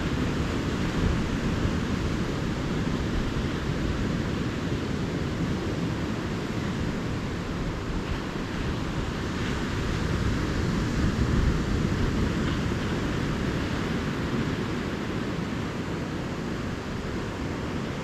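Calm ocean surf washing steadily onto the beach, swelling a little about ten seconds in.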